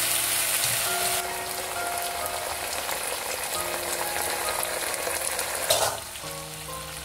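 Minced beef sauce with soy sauce sizzling hard in hot oil in a wok while it is stirred. There is a short loud knock near six seconds, after which the sizzle drops away.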